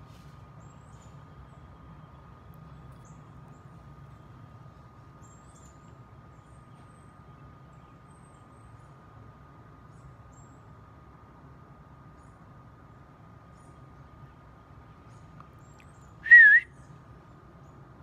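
A single short, loud bird chirp with a wavering pitch near the end, over a faint steady outdoor hum and a thin steady high tone.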